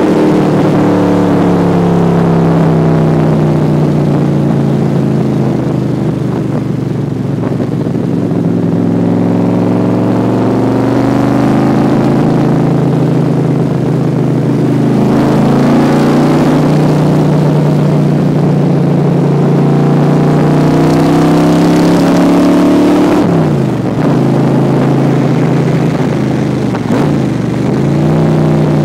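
Factory 5 Cobra replica's engine heard from the open cockpit while driving, its pitch sagging and rising with the throttle. Twice near the end the engine note drops sharply and climbs back up.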